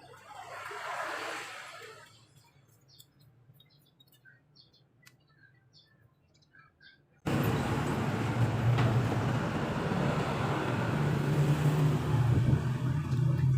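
Quiet with a few bird chirps, then about halfway through a truck engine comes in suddenly and keeps running loudly and steadily with a low hum.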